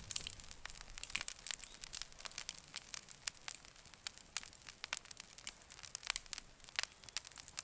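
Wood campfire crackling, with frequent sharp snaps and pops at irregular intervals.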